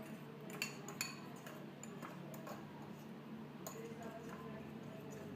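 A metal fork stirring thick batter in a bowl: light, irregular clinks and taps as the fork knocks the bowl, over a faint steady hum.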